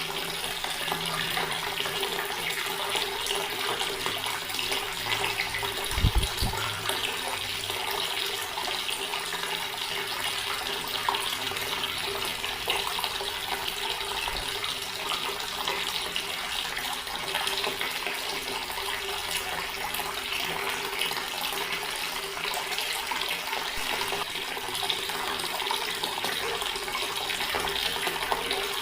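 Water running steadily from a tap into a stone basin, a continuous splashing flow. A single low thump sounds about six seconds in.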